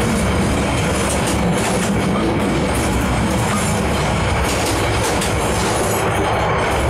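A passenger train running, heard from inside the carriage: a steady rumble of wheels on the rails, with rattles and clacks on top.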